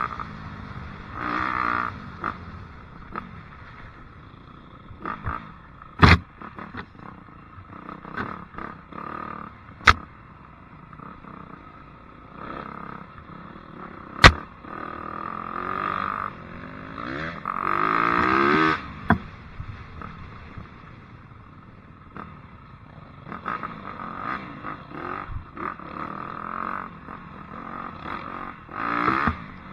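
Dirt bike engine revving up and down in surges while riding, with several sharp loud knocks.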